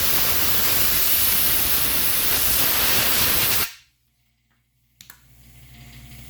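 Compressed air blow gun hissing in one long, loud blast that cuts off abruptly about three and a half seconds in, blowing debris out of shotgun parts during cleaning. A couple of small clicks follow about a second later.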